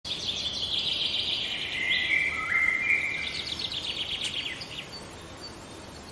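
Birds chirping: rapid trills and a few held whistled notes over a steady background hiss, fading out over the last couple of seconds.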